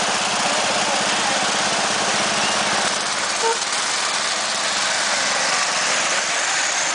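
Small gasoline engine of a 1/8-scale ride-on model locomotive running steadily.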